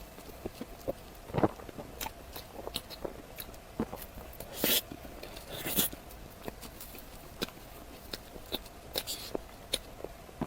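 Close-miked eating sounds: a person biting and chewing food, with scattered crunches and wet mouth clicks.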